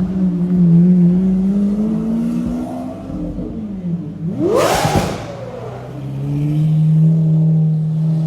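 A vehicle engine running and revving. Its note drifts for the first few seconds, then rises sharply with a rushing whoosh about halfway through and settles into a steadier drone.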